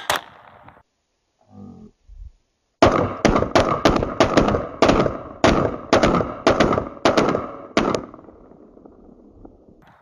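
Rapid gunfire: a string of about fifteen shots, roughly three a second, starting about three seconds in, with echo trailing off after the last shot. The end of an earlier string is heard at the very start.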